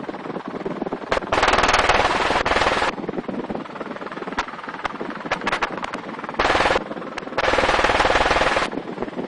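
Machine gun fired on full auto from a helicopter: a long burst about a second in, a short one past the six-second mark and another long one right after, with scattered single shots between.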